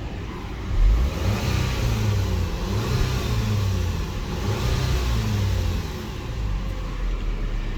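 2011 Volkswagen Eos 2.0-litre four-cylinder engine revved up and down several times from idle. It runs smoothly, with only one misfire counted on cylinder 2 against stored cylinder 2 and 3 misfire codes, which the inspector thinks may just need spark plugs.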